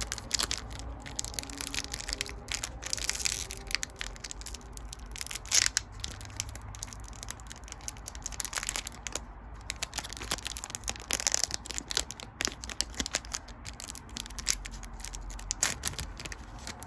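Crinkling and crackling of a foil Pokémon card booster pack wrapper being handled and torn open, with cards sliding against each other; irregular crackles, the sharpest about halfway through.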